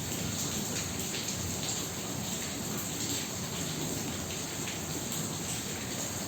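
Heavy rain falling steadily, a dense hiss with many small drop impacts on surfaces.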